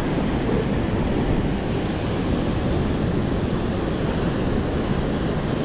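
Swollen, fast-flowing river after rain, a steady loud rush of water, with wind buffeting the microphone.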